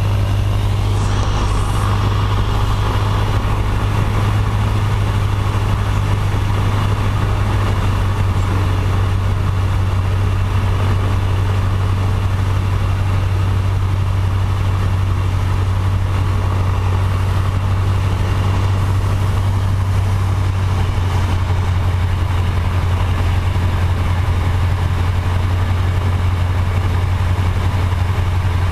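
Small aircraft engine running steadily, a constant low drone that holds the same pitch and level throughout.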